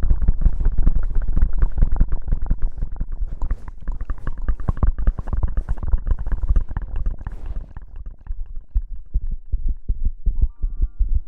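Close-miked rubbing and scratching in rapid crackling strokes, heaviest in the low end: ASMR hair-washing and rustling sounds worked against the microphone. The strokes thin out late on, and a few soft musical tones come in near the end.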